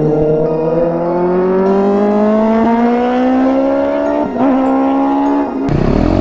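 Sport motorcycle engine pulling hard, its pitch rising steadily for about five seconds with a brief dip near four seconds as it shifts up. Just before the end it cuts abruptly to a different engine revving up and down.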